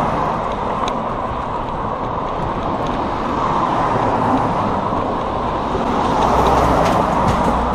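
Steady rushing wind and road noise from riding a bicycle, swelling slightly near the end.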